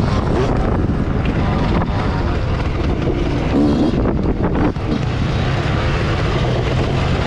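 Motocross bike engine revving up and down under throttle, with wind buffeting the microphone. The sound dips briefly about four and a half seconds in.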